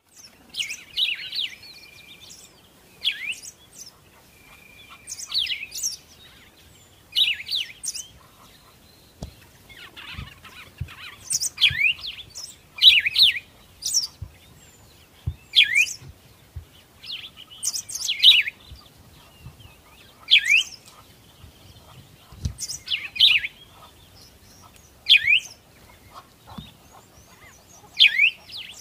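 Small birds chirping: a short phrase of quick, falling chirps repeats about every two seconds. A few soft low thumps come in the middle.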